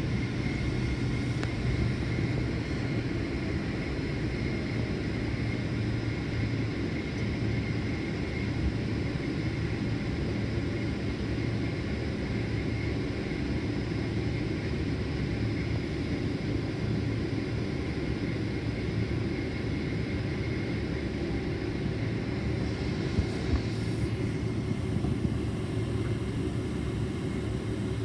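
Steady cabin noise of a Boeing 767-400ER heard from inside the passenger cabin: a constant low rumble of the engines and airflow, with a faint steady hum.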